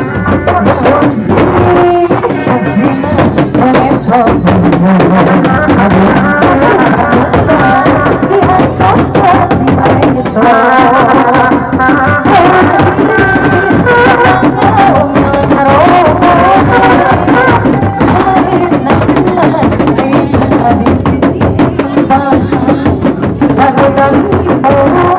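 Loud traditional folk music: hand drums beating busily under a wavering, ornamented melody line.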